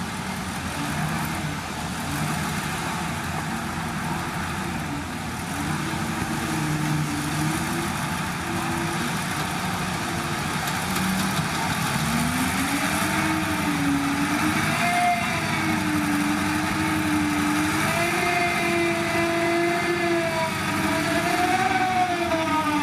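Heavy diesel engine of earthmoving machinery running steadily, its pitch rising and falling as the load changes, busier in the second half.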